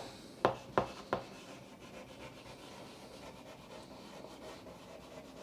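Three light taps in quick succession, about a third of a second apart, in the first second and a half, then faint room hiss.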